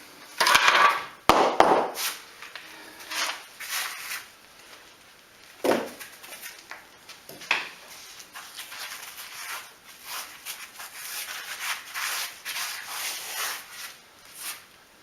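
Irregular scraping and rubbing of mortar being worked over fireplace brickwork, with a few sharp knocks in the first two seconds.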